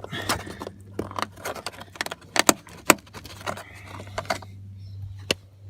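Plastic door trim on a pickup being pried at and handled: a run of sharp clicks and rattles, the loudest about two and a half to three seconds in, over a steady low hum.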